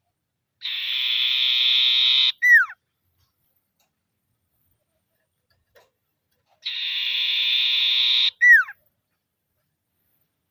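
Common iora (sirtu/cipoh) giving its rattling 'ngetir' call twice. Each call is a buzzing rattle about a second and a half long, cut off by a single sharp downward-slurred whistle.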